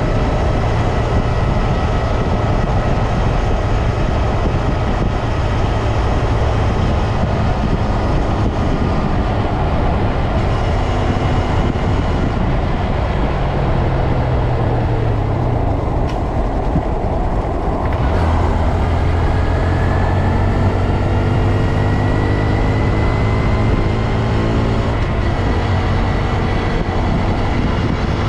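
2022 Honda Grom's 125 cc single-cylinder engine and drivetrain heard while riding, over a steady low rumble. Several whining tones slide up and down in pitch, most clearly in the second half.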